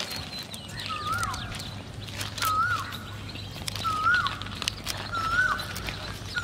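A bird calling over and over, a short wavering whistled note about every second and a half, with fainter chirps of other birds.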